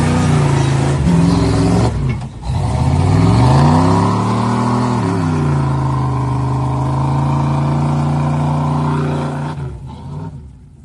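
Off-road vehicle's engine running hard: it dips briefly about two seconds in, revs up and falls back, then holds a steady pitch before fading away near the end.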